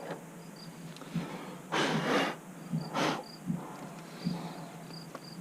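Crickets chirping faintly and steadily, with two short scraping noises about two and three seconds in, and a few small clicks.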